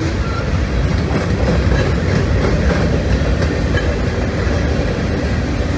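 Freight train of covered hopper cars rolling past close by: a steady rumble of steel wheels on the rails with clickety-clack over the rail joints.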